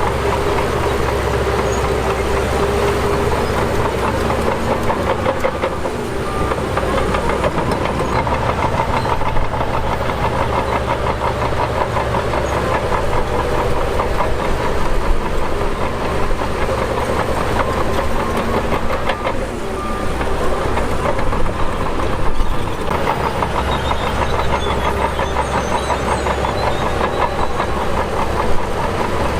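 Shantui DH17 bulldozer's diesel engine running steadily while pushing dirt, with a rapid clatter over it and a few brief louder knocks.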